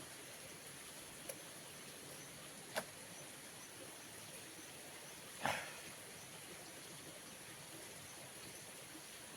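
Quiet rural outdoor ambience: a steady high hiss, broken by three short sharp clicks, the last and loudest about five and a half seconds in.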